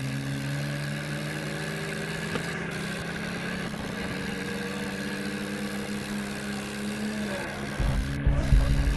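John Deere tractor's diesel engine running steadily. Its pitch shifts about seven and a half seconds in, followed by a burst of loud low rumbling near the end.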